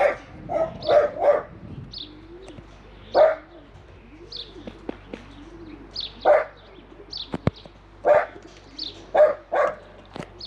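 A dog barking repeatedly: a quick run of four barks, then single and paired barks every couple of seconds. Between the barks, pigeons coo softly and small birds chirp faintly.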